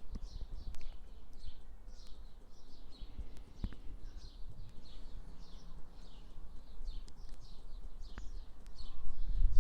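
A small bird chirping over and over, about two to three short chirps a second, over a low background rumble that grows louder near the end.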